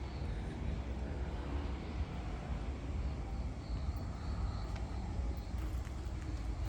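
Steady outdoor background noise: a continuous low rumble under an even hiss.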